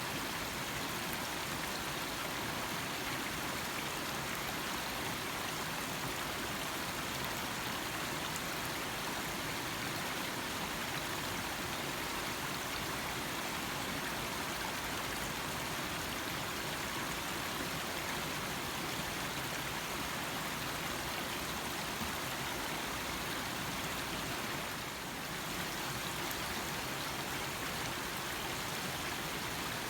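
Small stream flowing and trickling, a steady even rush of water.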